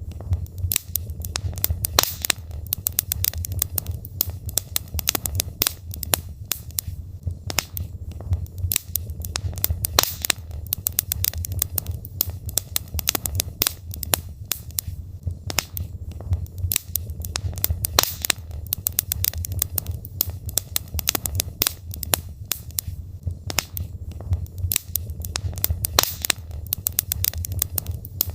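Burning logs in a fireplace crackling, with frequent irregular sharp pops and snaps over a low steady rumble of the flames.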